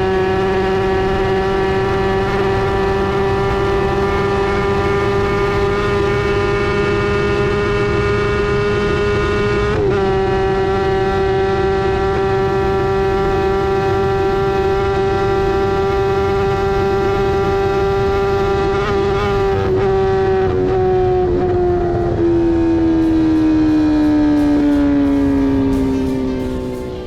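Kawasaki ZX-10 inline-four racing motorcycle engine held at high revs at full throttle during a land-speed pass, with a brief break in the note about ten seconds in. From about twenty seconds the engine note falls steadily as the bike slows after the run, and it fades out at the end.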